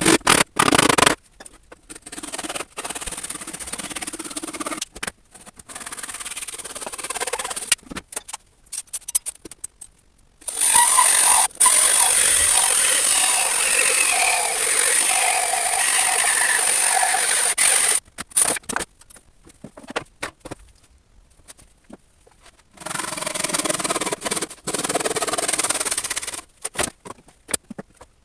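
Woodworking tool noise on scrap wood, in several separate stretches, the longest a steady run of about eight seconds in the middle with a slowly falling whine.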